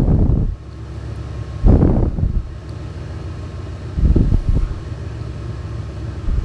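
Steady low hum of shop machinery running, broken three times by short, louder rumbling knocks, roughly two seconds apart.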